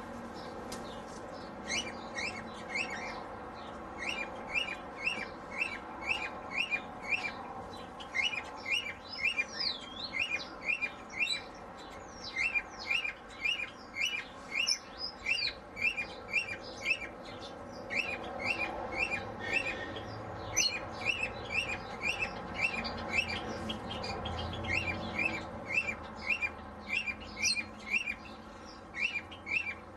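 Birds in a mixed aviary chirping: a steady run of short repeated chirps, a few each second, with other scattered higher calls over it.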